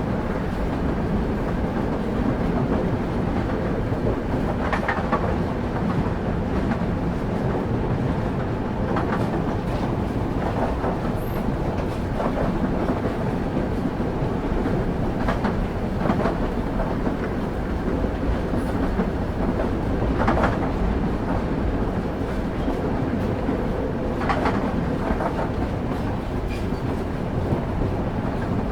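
Moving train heard from inside a railway carriage: a steady low rumble of wheels on track, with short clusters of wheel clicks over rail joints every few seconds.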